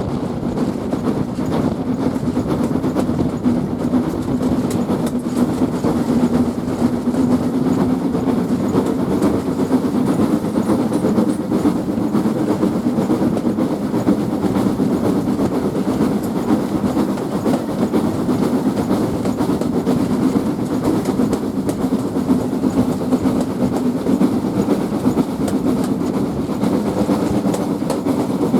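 Steam-hauled heritage passenger train running along the line, with a steady noise of wheels on track.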